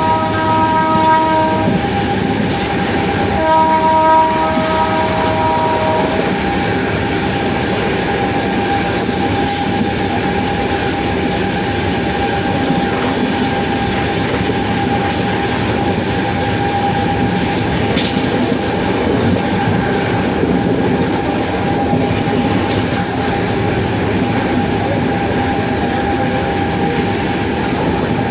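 WAP-7 electric locomotive running with a steady high whine from its traction motors over the rumble of the train. A horn chord ends about two seconds in and sounds again for about two and a half seconds.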